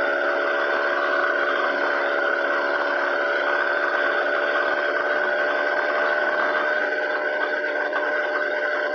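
Small engine of a motorized bicycle running at a steady, unchanging pitch while riding along.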